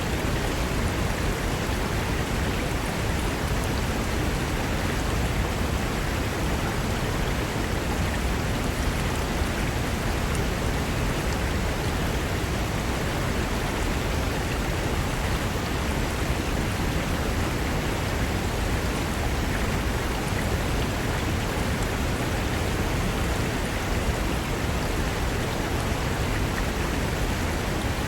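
Mountain river rushing steadily over rocks, a dense unbroken roar of water.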